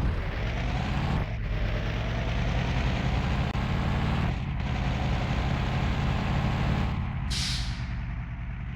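Truck engine running steadily, with brief dips about one and four and a half seconds in. A short hiss comes about seven seconds in.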